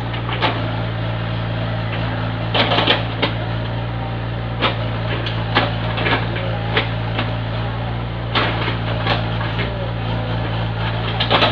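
An engine running steadily at a constant low drone, with irregular sharp knocks and clatter of construction work on top.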